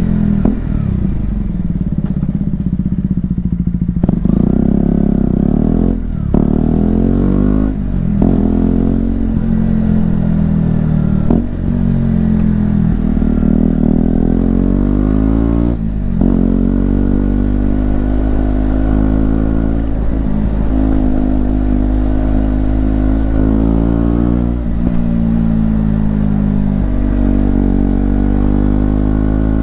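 KTM Duke 125's single-cylinder 125 cc four-stroke engine under way, accelerating through the gears. Its pitch climbs and then drops sharply at each of several gear changes.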